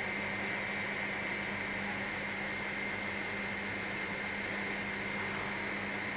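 Helicopter in flight, a steady cabin drone heard through the intercom: an even hiss with a constant low hum and a thin high whine.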